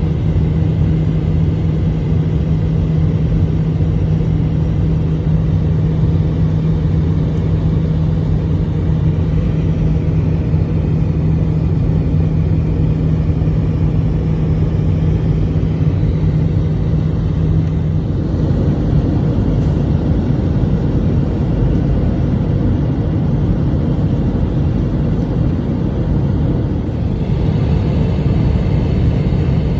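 Airliner cabin noise: a loud, steady rumble of the engines and airflow heard from a passenger seat, with a steady hum that drops away about eighteen seconds in as the engine sound shifts.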